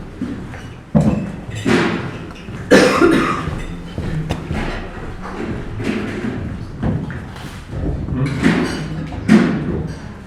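Hotel breakfast room ambience: background chatter with several sudden loud noises, the loudest a few seconds in and again near the end.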